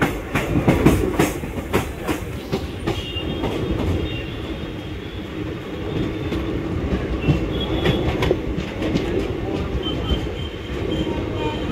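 Indian Railways express train running at speed, heard from beside the coach: a steady rumble of wheels on rails, with a quick run of sharp wheel clacks over track joints in the first two seconds and faint high wheel squeals coming and going after that.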